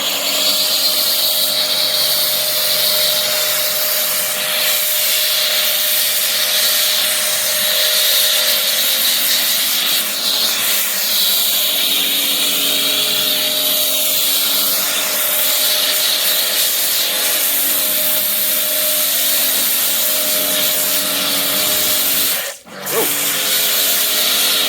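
Pressure washer running and spraying snow foam through an MJJC foam cannon: a steady motor and pump drone under a loud spray hiss. It cuts out for a moment near the end as the trigger is let go, then starts again.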